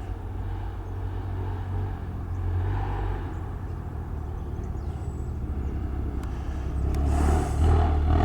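Distant road vehicles rumbling steadily, growing louder near the end.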